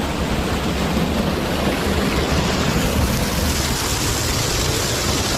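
Waterfall: a steady rush of falling water with a deep rumble under it. The hiss grows brighter about three and a half seconds in.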